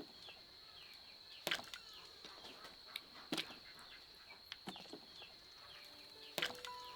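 Four sharp knocks, one every one and a half to two seconds, over a steady high-pitched whine.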